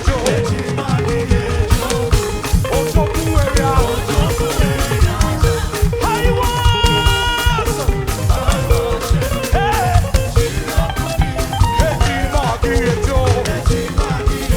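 Upbeat praise-band music with a fast, steady drum and percussion beat. A single held note sounds for over a second about six seconds in.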